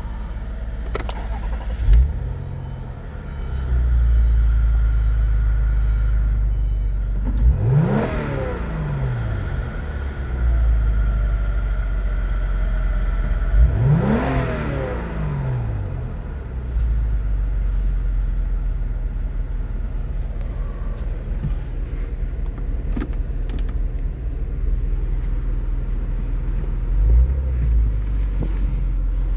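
MG ZT's 2.5-litre KV6 V6 petrol engine idling, with a short throttle blip about two seconds in. Two longer revs follow, each climbing and falling back to idle, then one more small blip near the end.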